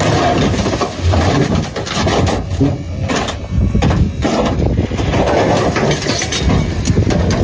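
Small utility truck's motor running under load, with irregular knocking and clatter throughout.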